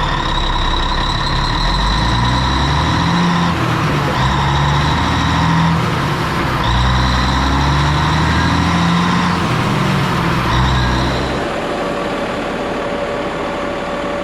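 Diesel engine of a crane revving up and dropping back in several spells of a few seconds each, with a high whine rising and falling alongside the revs, the sound of the hydraulics being worked as the load is lifted. About eleven seconds in it settles back to a steady idle.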